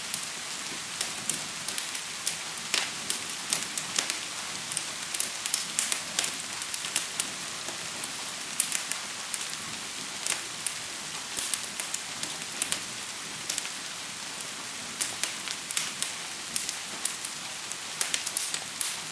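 Steady hiss of gentle rain mixed with the irregular sharp crackles and pops of a burning wood fire, coming in clusters, with a calmer stretch of fewer pops about two-thirds of the way through.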